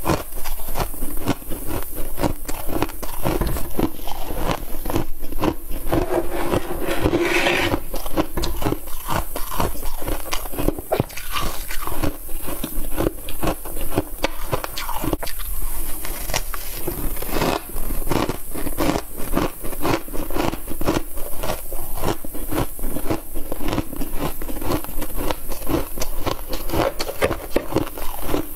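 Close-up biting and crunching of freezer frost, a dense run of crackling bites that goes on without a break, with a brief squeaky scraping stretch a quarter of the way in.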